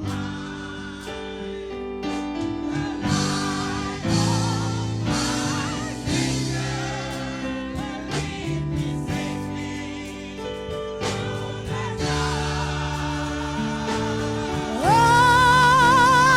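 Gospel song with sustained instrumental chords and singing. A loud, long held sung note with wide vibrato comes in near the end.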